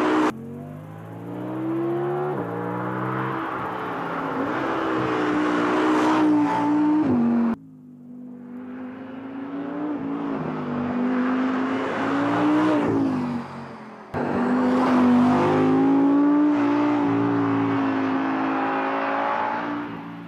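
2016 Audi R8 V10 plus's naturally aspirated 5.2-litre V10 driven hard: the engine note climbs through the revs and drops sharply at each upshift, again and again. The sound cuts off suddenly three times, picking up again on another run.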